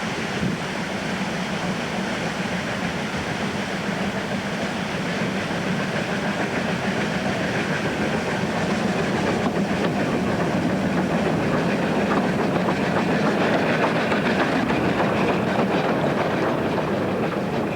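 Rack-railway train climbing a steep gradient, running steadily and gradually growing louder, with a fast clatter from about halfway through.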